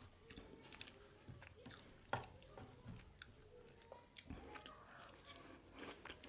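Faint, close mouth sounds of a person biting and chewing grilled pork sekuwa with rice: scattered small clicks, with one sharper click about two seconds in.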